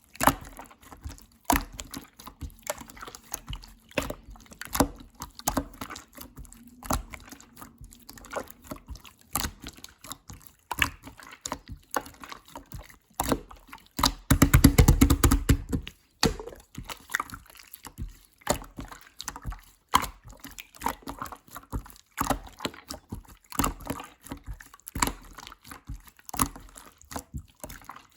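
Clear slime being squished and pressed by hand, making wet, irregular clicks and pops. About halfway there is a louder two-second run of rapid squelching clicks.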